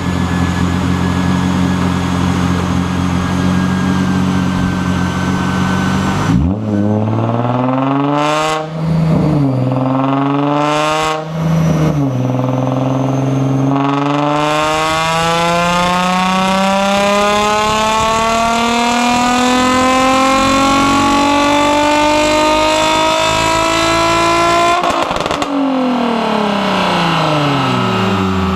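Infiniti G35 coupe's 3.5-litre V6 through a Tomei Expreme Ti titanium exhaust: it idles steadily, then is blipped three times about six seconds in. Next the revs are held in one long, slow climb of about ten seconds, and near the end they drop back to idle.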